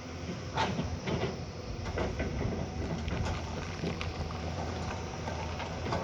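Heavy construction machine engine running steadily, with sharp knocks and clanks every second or so, as of rock and gravel being worked.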